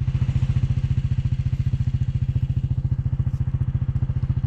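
ATV engine running at a steady speed, a rapid low putter.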